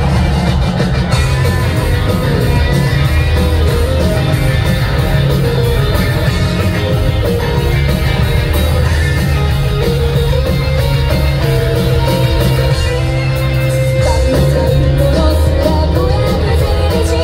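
A live rock band playing a song at full volume, with a female lead singer over electric guitar, bass, drums and keyboards.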